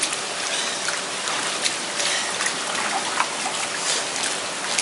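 Rain falling steadily: a dense, even hiss with scattered drops splashing.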